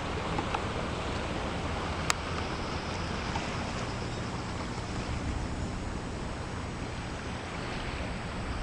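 Typhoon wind blowing across the microphone over the noise of rough sea and surf in the harbour, steady throughout, with one sharp click about two seconds in.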